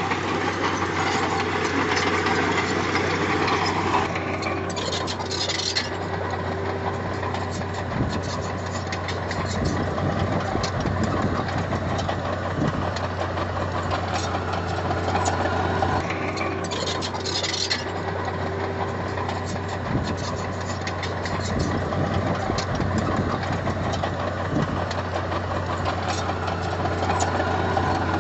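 Diesel engine of heavy earthmoving machinery running steadily, with a brief hiss twice, at about four seconds in and again near seventeen seconds.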